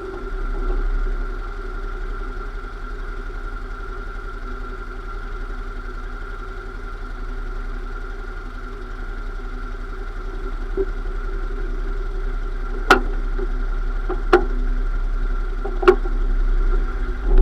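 Lada Niva drivetrain running with a steady hum, and three sharp clicks about a second and a half apart near the end. The owner presents this as an abnormal noise from the transmission.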